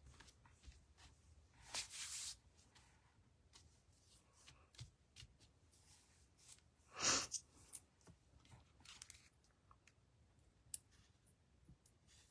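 Paper and cardstock being handled and rustled, with scattered light ticks and taps. There is a louder brief rustle about two seconds in and a sharper, louder one about seven seconds in.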